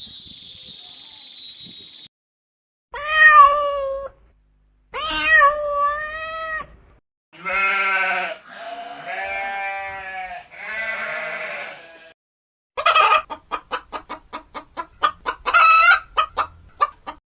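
A series of animal calls: two short calls that glide in pitch, then three longer drawn-out calls, then a fast run of short pulsed calls.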